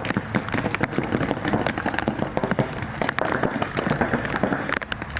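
Paintball markers firing: a rapid, irregular run of sharp cracks and pops over steady background noise.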